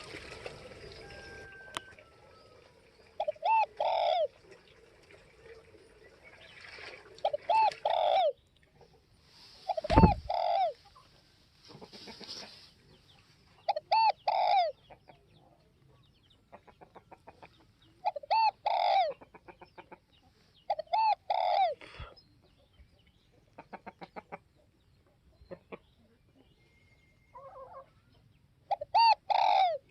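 Spotted dove cooing: short phrases of a few low, rounded coo notes, repeated every few seconds. A single dull thump comes about ten seconds in, and faint rapid ticking comes between some of the calls.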